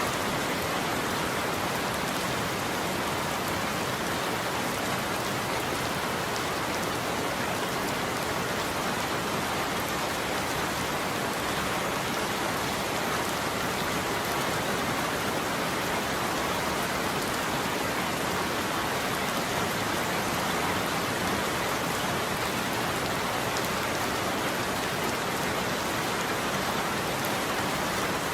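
Steady heavy rain falling, an even hiss that holds level throughout with no thunder claps.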